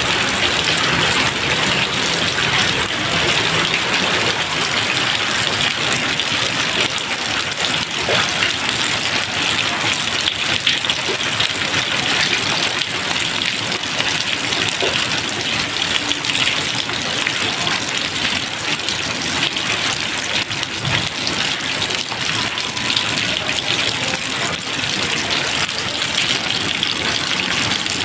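Steady rain falling, an even hiss with many fine drop taps, no thunder.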